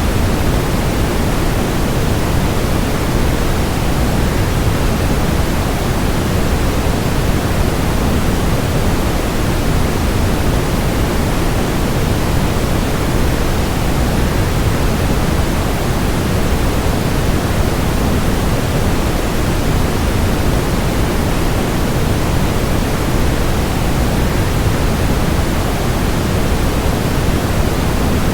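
Waterfall rushing in a steady, even roar of falling water, heavier in the low end, with no changes or breaks.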